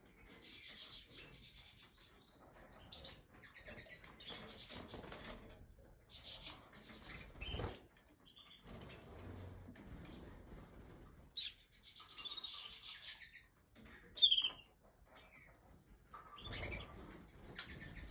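Small cage birds, canaries, fluttering and moving about in an aviary, with repeated short rustles of flapping wings and a few brief chirps. One louder, sharp chirp comes about two-thirds of the way through.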